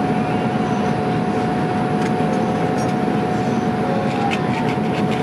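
Airbus A310 airliner cabin noise in flight: a steady rush of engine and airflow with a constant high whine.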